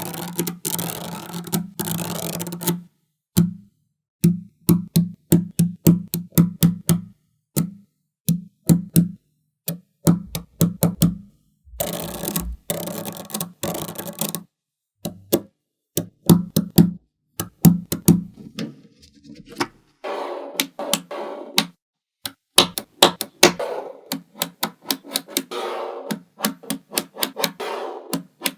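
Small magnetic balls clicking and snapping together as they are placed, in quick runs of sharp clicks broken by sudden silent gaps, with a low hum under some of the runs.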